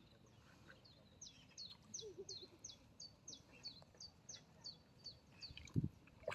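A small bird calling a rapid, even series of short, high chirps, each sliding down in pitch, about three a second. Near the end there is a brief low thump, louder than the chirps.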